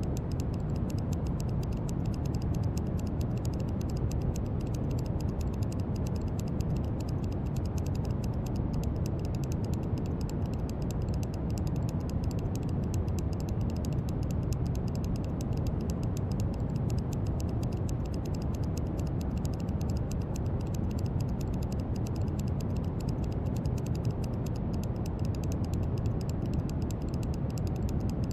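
Brown noise: a steady, even hiss weighted heavily toward the low end, with no change over the whole stretch.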